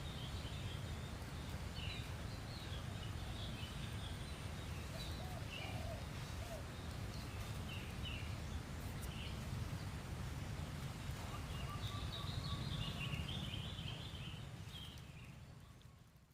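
Small birds chirping in scattered short high calls over a steady low rumble of wind, with a few lower calls about five seconds in; the sound fades out at the end.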